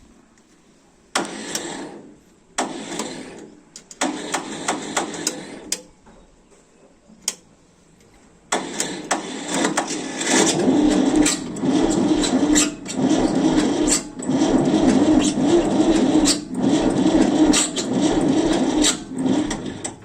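Ford tractor's starter motor cranking the engine on a low battery: three short tries, then a long unbroken crank of about eleven seconds that pulses with each turn over, without the engine catching.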